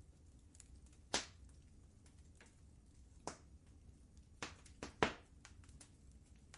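Wood fire crackling in a fireplace: scattered faint crackles with a few sharp pops, the loudest about a second in and about five seconds in, over a low steady rumble.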